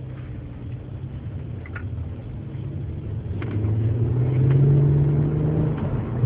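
2001 Audi S4's 2.7-litre twin-turbo V6 running on the move, then pulling harder under acceleration: the engine note rises in pitch and grows louder from about halfway through, then eases off just before the end.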